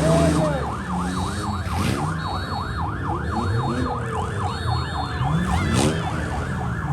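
A yelp-style siren cycling quickly up and down, about four to five times a second, over several vehicle engines revving, with a few sharp bangs.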